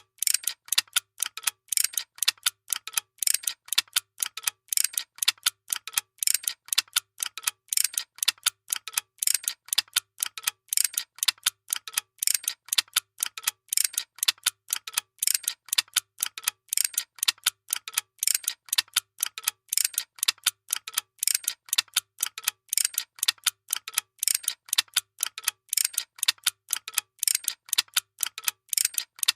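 A workshop machine running with a fast, even mechanical clicking, about four clicks a second, over a faint low hum.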